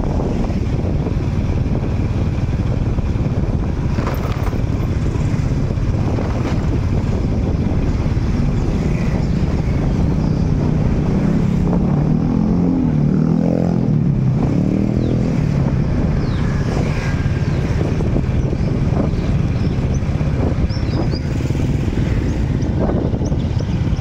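Motorcycle traffic running steadily, with one engine rising then falling in pitch about halfway through as it passes close. A few faint high chirps sound over it.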